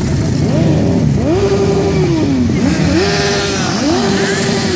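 Several motorcycle engines revving, overlapping one another; each note climbs in pitch, holds briefly and drops away again, over and over.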